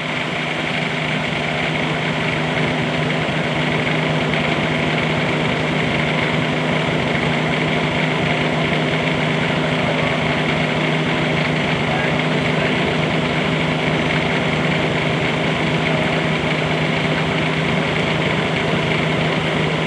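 Bobcat 320 mini excavator's diesel engine running steadily after a glow-plug start, picking up slightly in the first couple of seconds and then holding an even note.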